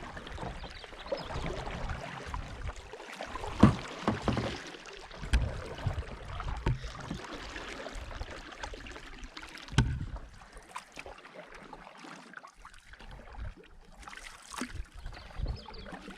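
Canoe being paddled: paddle strokes swishing and splashing in the water, with a few sharp knocks of the paddle against the hull.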